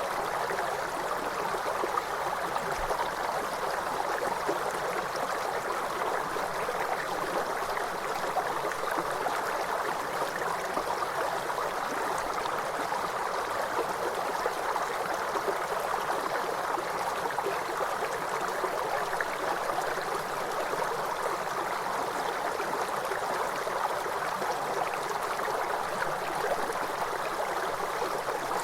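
River water flowing, a steady unbroken rush with no change in strength.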